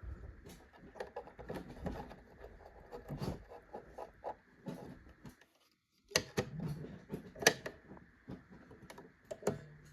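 Pfaff Select 3.0 mechanical sewing machine making irregular clicks and knocks over a faint steady hum. Everything drops out briefly just past halfway, then louder clicks follow.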